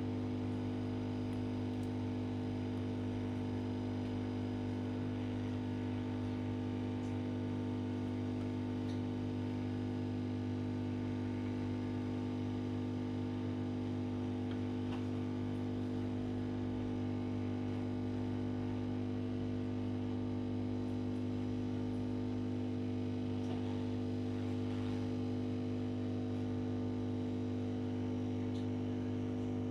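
Steady mains hum with several overtones from a powered-up audio amplifier with no signal playing, holding at an even level.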